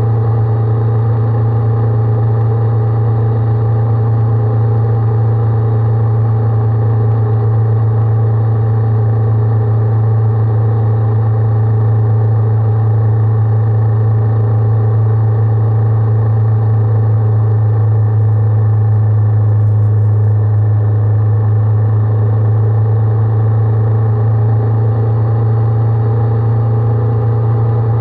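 Honda 400X's parallel-twin engine running steadily at an unchanging speed, a loud, even hum with no revving or gear changes.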